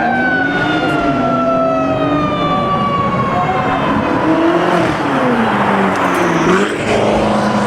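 Car engines revving up and down repeatedly while a siren winds down, its wail falling slowly in pitch and fading out about halfway through.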